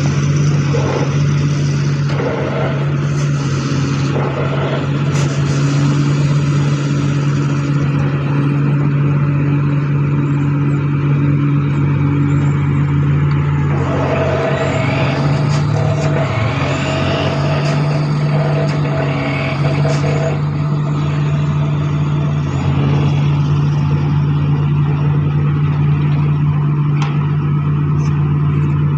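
Excavator-mounted vibro hammer and the excavator's diesel engine running steadily, a loud constant low hum, as the machine works to pull a steel pipe out of the ground. Some higher whining tones come in about halfway through and fade again.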